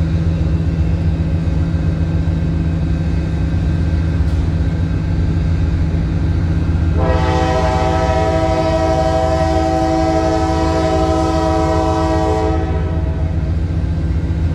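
Diesel freight locomotive running close by with a steady low engine drone, sounding a multi-tone horn in one long blast of about five seconds, starting about halfway through.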